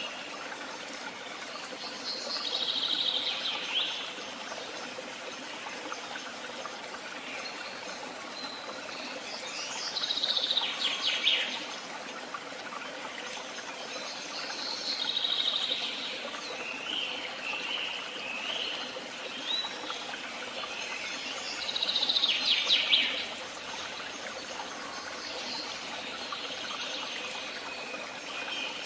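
A songbird singing short phrases of about two seconds, four times, each a fast run of high notes, over the steady rush of a woodland stream.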